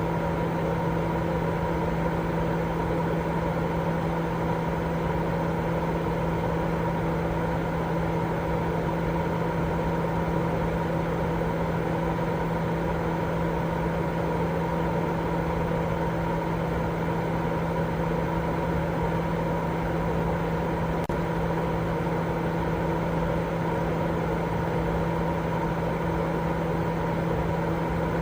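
Continuous sleep noise: a steady hiss with a low hum running under it, unchanging throughout.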